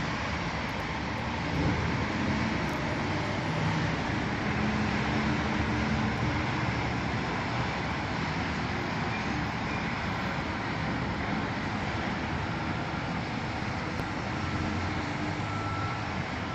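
Steady outdoor noise of vehicle traffic, with a faint low engine hum under an even rushing sound.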